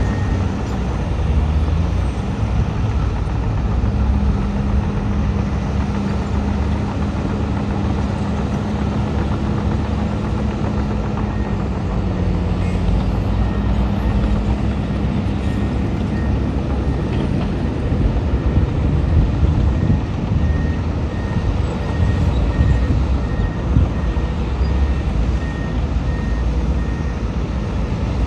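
Heavy diesel earthmoving machinery running steadily under load. From about the middle onward a reversing alarm beeps at an even pace, about two beeps a second.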